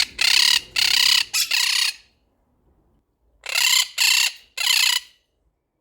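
Quaker parrots shouting: loud, harsh screeching calls, about four in quick succession, then a pause and three more. They are alarm calls from birds scared of cats.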